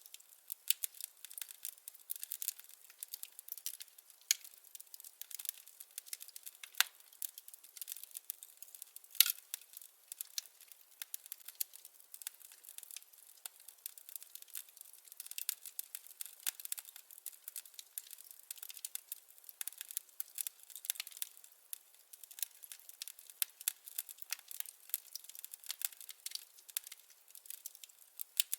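Wood fire crackling: a dense, irregular run of small snaps and pops, with a few sharper pops standing out, around 7 and 9 seconds in.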